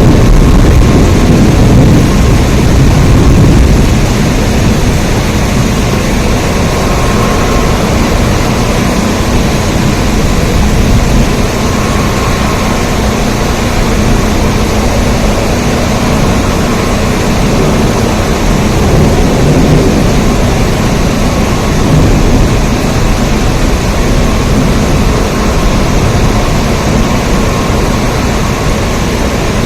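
Steady heavy rain: a dense, even rush of noise with a strong low rumble underneath.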